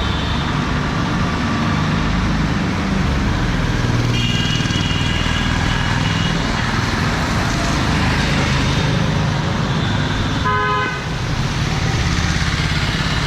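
Street traffic with engines running low and steady, a horn sounding for about two seconds around four seconds in, and a short horn blast near the end.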